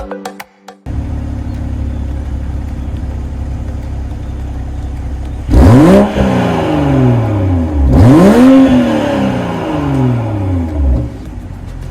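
BMW M340i's turbocharged straight-six idling through its stock exhaust, then revved twice, about two seconds apart, each rev climbing sharply and falling slowly back to idle.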